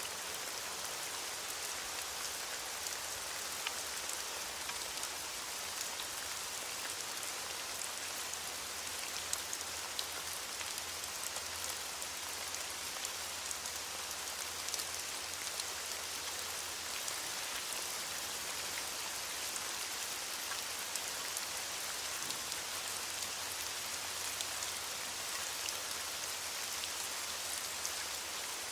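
Steady rain falling on a surface, a dense even hiss with scattered single drops ticking through it.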